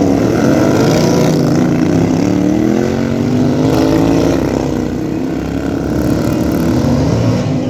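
Racing lawn tractor engines running hard, their notes overlapping and rising and falling in pitch as the tractors speed up and slow down.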